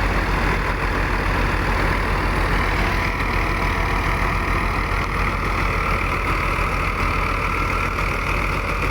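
A 65 hp tractor engine running steadily while driving a wheat thresher, with the thresher's machinery running along with it. A higher steady tone joins the mix about three seconds in.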